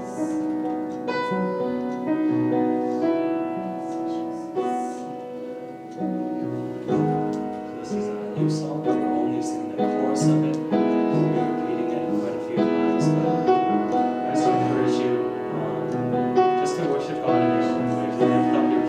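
Piano playing slow worship music with sustained chords.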